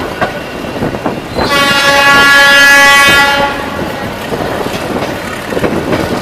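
A train's air horn sounds once, a steady multi-tone blast of about two seconds, starting about a second and a half in. Beneath it runs the steady rumble and wind noise of a moving train.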